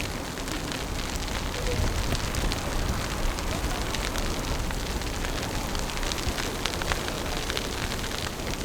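Wind buffeting the microphone in a snowstorm, a steady low rumble with a constant scatter of small crackles.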